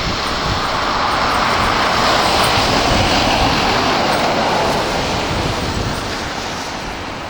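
A vehicle driving past, its engine and road noise swelling to a peak two to three seconds in, then fading.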